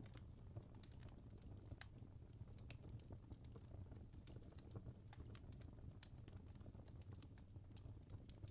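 Faint, irregular clicks over a low steady hum, close to silence.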